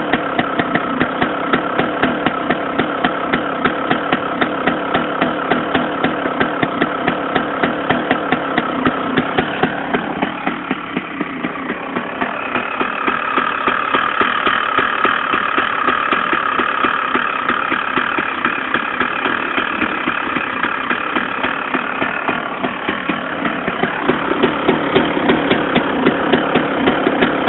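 Two-stroke Honda CR motocross engine idling through a swapped-in CR125 muffler, with an even, rapid exhaust beat. The engine sags about ten seconds in, then picks back up and runs on steadily.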